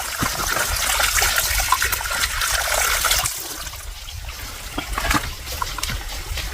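Water trickling and splashing, with many small clicks of droplets; it eases off a little about three seconds in.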